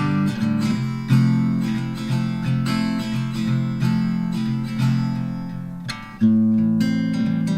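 Background music: strummed acoustic guitar chords, with a short drop in level about six seconds in before a strong new strum.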